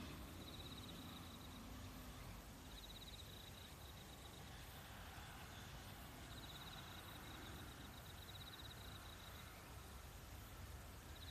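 Faint nature ambience: a high, rapid trill repeating in bouts of one to two seconds, about five times, over a low, steady hiss.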